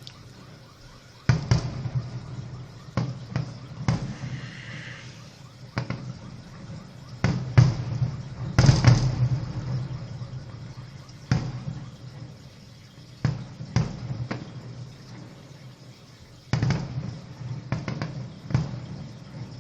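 Fireworks salute: a string of sharp bangs at irregular intervals of about one to two seconds, some in quick pairs, with a brief crackle a few seconds in, over a steady low hum.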